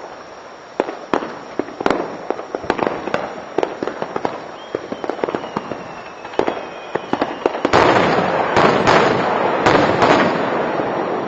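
Aerial fireworks bursting: a string of sharp bangs and cracks that comes faster and faster, with a faint whistling tone midway. From about eight seconds in, a loud, dense crackling barrage.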